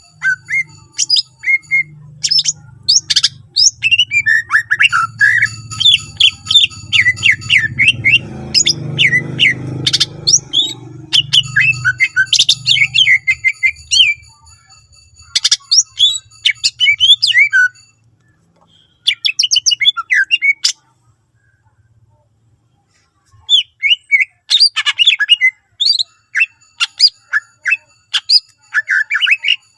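Green leafbird (cucak ijo) singing a fast, varied song of chirps, trills and sharp calls, full of mimicked phrases of other birds. The song breaks off for a couple of seconds about two-thirds of the way through, then starts again. A low hum runs under the first half.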